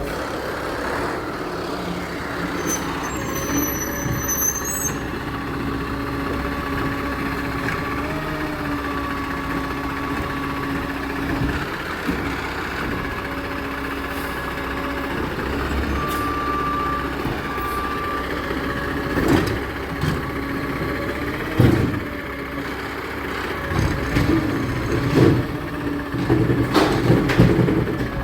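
Garbage truck engine running steadily, with two short beeps about two-thirds of the way in and a series of knocks and bangs near the end.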